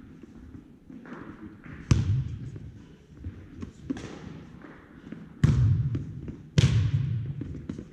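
Volleyball being hit hard in a hall: three loud ball impacts, about two seconds in and twice close together near the end, each ringing out in echo, with a softer hit in between.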